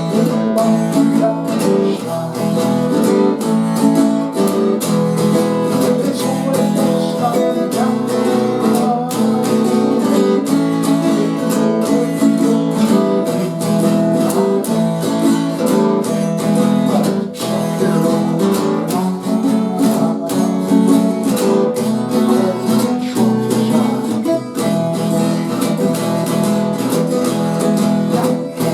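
Acoustic guitar playing a country-folk song, strummed and picked.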